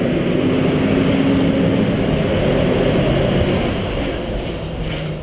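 A motor vehicle running, a steady engine rumble and hum that fades gradually near the end.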